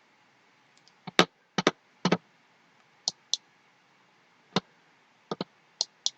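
About a dozen sharp, irregular clicks at a computer, some in close pairs, as someone types and clicks to bring up a website.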